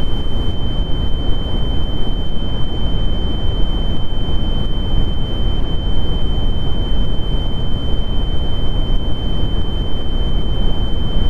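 Sound-design effect: a steady high-pitched ringing tone held over loud, low rumbling noise.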